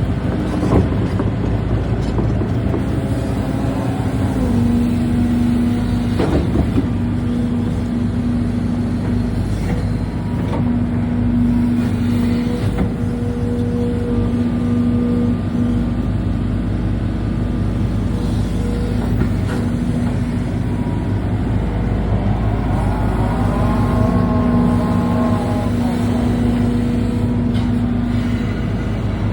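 Hidromek 220 excavator running steadily, a steady whine over its engine note. There is a sharp knock about a second in and another around six seconds in, and a whine that rises and falls in pitch about three-quarters of the way through.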